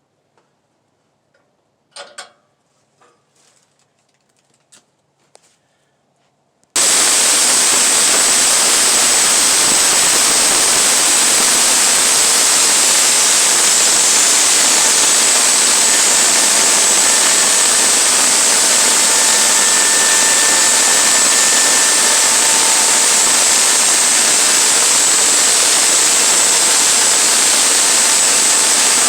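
A few faint knocks, then about seven seconds in a sawmill starts abruptly, loud and steady, cutting a stack of pine slabs into 1x4 boards.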